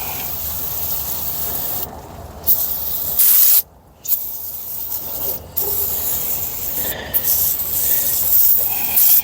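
Spray hissing in long bursts, cut off briefly about two, three and a half and five and a half seconds in, as the trigger is let go and pressed again.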